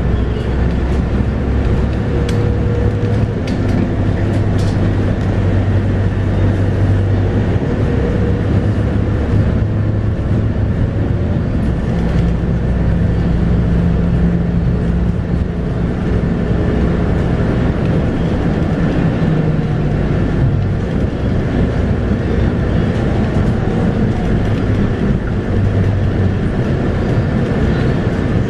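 Scania K230UB bus on the move, heard from on board: its 8.9-litre five-cylinder Scania DC9 diesel and ZF Ecomat automatic gearbox run steadily under road and body noise. The engine note climbs higher about twelve seconds in and drops back around twenty seconds.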